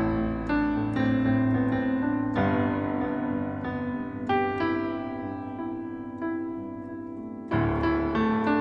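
Piano playing slow chords under a simple melody, notes struck and left to ring and fade, with a fresh chord about every one to two seconds.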